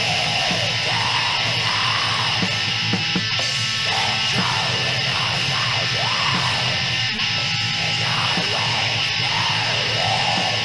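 Depressive black metal demo recording: a dense, steady wall of distorted electric guitar with a high, rasping shrieked vocal over it.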